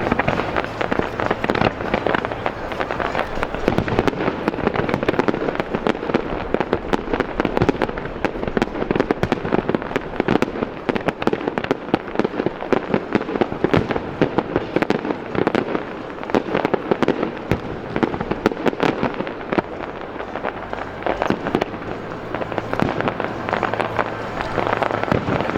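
Fireworks going off in a dense barrage: rapid crackling bangs that follow one another without a pause.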